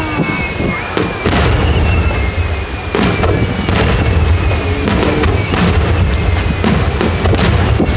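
Aerial fireworks bursting in a steady barrage, sharp booms and crackles roughly one or two a second over a continuous deep rumble.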